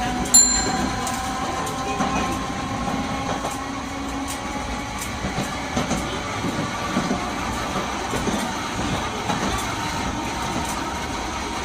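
Nagasaki Electric Tramway 370-class streetcar running between stops: steady motor hum that drifts slowly in pitch, with regular light clicks from the wheels on the track. A sharp click with a short high ring comes about half a second in.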